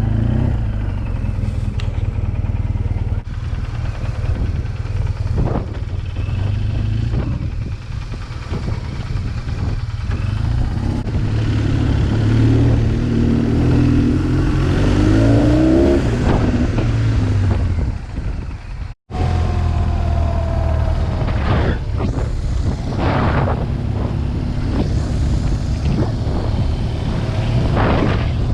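BMW R 1200 GS flat-twin engine through an SC Project aftermarket exhaust, running under way with wind noise. The pitch rises as it accelerates about halfway through, and the sound drops out briefly near a cut in the footage.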